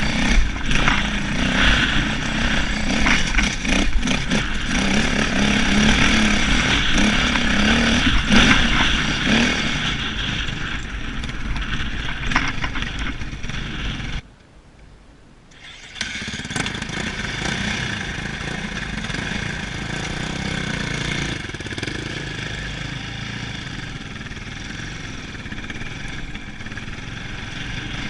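Dirt bike engines revving and running hard on steep climbs. The sound drops away for about two seconds about halfway through, then the engine sound returns.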